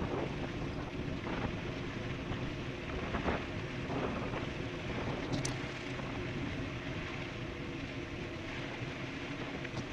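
Steady wind rush on the microphone and the running noise of an e-bike riding at speed, with a brief sharp click about five seconds in.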